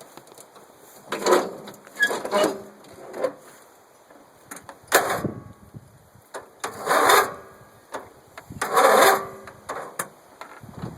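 Murray riding mower's starter trying to turn the engine over in about six short bursts one to two seconds apart, never catching: the battery is dead.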